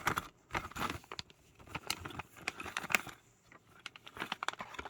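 Small plastic model parts and their packaging being handled: irregular light clicks and crinkling rustles.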